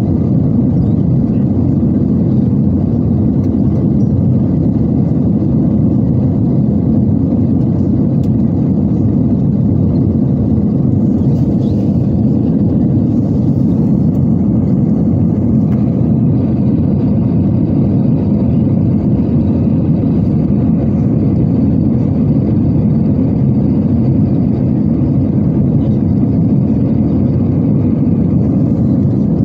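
Steady cabin noise inside an Airbus A320-214 in flight: a low rush of airflow over the fuselage together with the hum of its CFM56 engines. It stays even, with no change in level.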